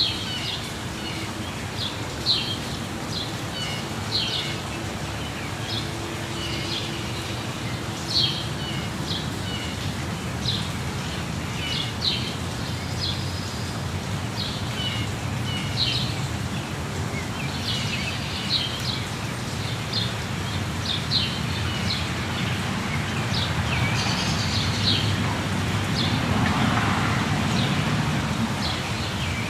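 Birds chirping in quick repeated calls over the steady rush of a waterfall.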